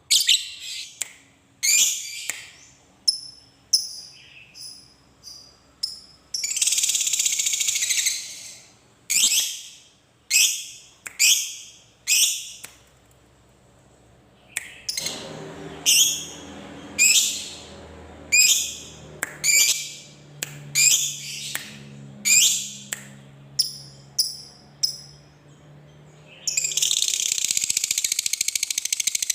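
Lovebird calling: a run of sharp, high, separate shrieks, broken about six seconds in by a two-second rapid chattering trill, and going over near the end into another long continuous chatter, the drawn-out 'ngekek' that keepers prize.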